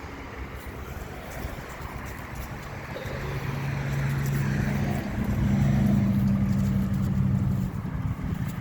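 A motor engine drones steadily, growing louder about halfway through and dropping off near the end.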